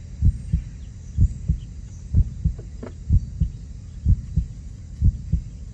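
Low, heartbeat-like double thumps, a pair about once a second, evenly repeated.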